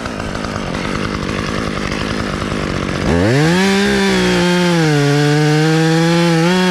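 Chainsaw idling roughly, then revved sharply to full throttle about three seconds in and held there, its pitch wavering near the end as it bears into the limb.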